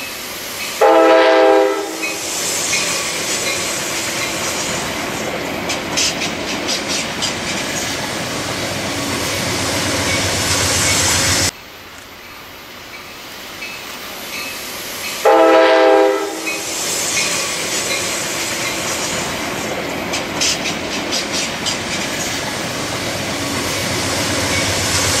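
Passenger train sounding a short chord horn blast, then running past with a steady rush and bursts of wheel clicks over rail joints, growing louder. The sound cuts off abruptly near the middle and the whole sequence repeats, horn blast included.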